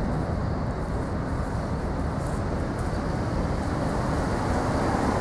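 Steady low rumble of a moving bus's engine and road noise, heard on board.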